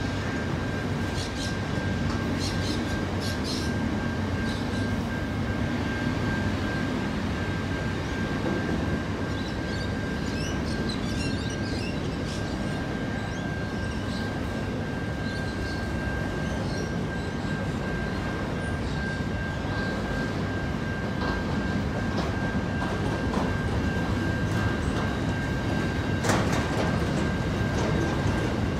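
Freight train rolling past at steady speed, its wagons' wheels rumbling on the rails. A thin high whine is held throughout, with scattered clicks and a sharper knock near the end.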